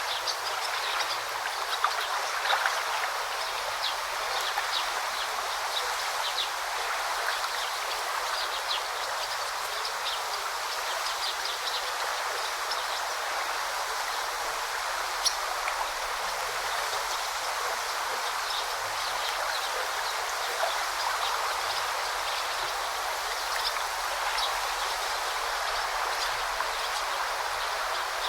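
A forest river flowing and babbling steadily, with small birds chirping briefly and high above it throughout.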